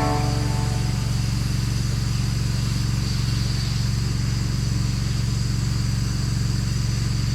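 Engine running steadily at constant speed, with a steady hiss above it.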